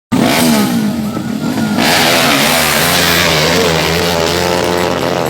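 Motorcycle engines revving, their pitch rising and falling, with a louder rush of engine noise from about two seconds in.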